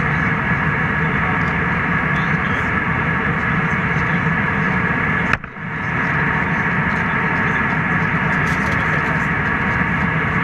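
Steady airliner cabin noise: the roar of the jet engines and airflow heard from inside the passenger cabin in flight. The sound cuts out for a moment about halfway through.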